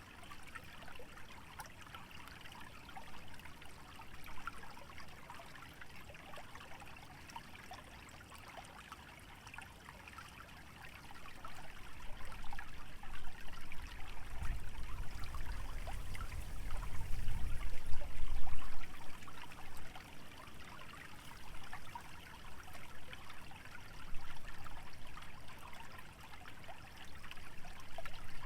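Small wetland stream trickling steadily, a fine, continuous patter of running water. About halfway through, a low rumble swells for several seconds and fades, louder than the water.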